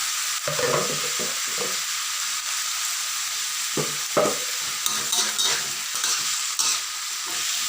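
Sour fermented bamboo shoots and vegetables sizzling in hot oil in a pan while being stirred, with a steady frying hiss. A spatula scrapes and knocks against the pan every so often, most often in the second half.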